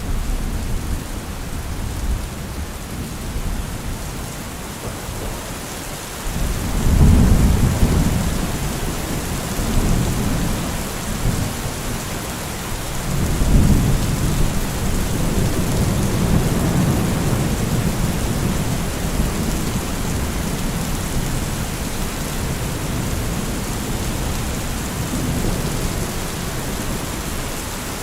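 Heavy rain falling steadily as a dense hiss. Deep rumbling swells come in about six seconds in and again about halfway through, each lasting a few seconds.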